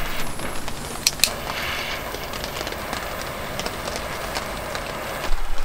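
Steady rain hiss with scattered patters and ticks, and two sharp clicks about a second in.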